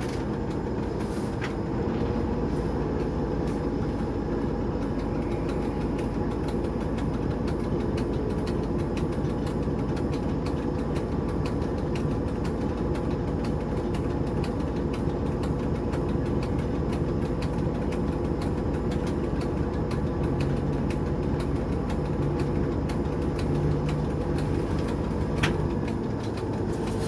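TEP70 diesel locomotive's 16-cylinder diesel engine running steadily, a dense drone with several steady tones and many faint ticks throughout.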